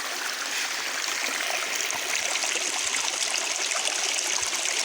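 Mountain stream running over rocks, a steady, even rush of water with no breaks.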